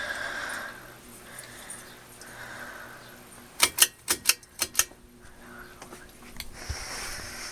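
Old top-mount cane ceiling fan running on medium with a faint steady hum. About halfway through comes a quick run of about seven sharp clicks, the loudest sound here.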